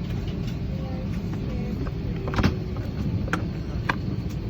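Steady low rumble of an Airbus A320 cabin parked at the gate before engine start, with scattered sharp clicks and knocks, the loudest about two and a half seconds in.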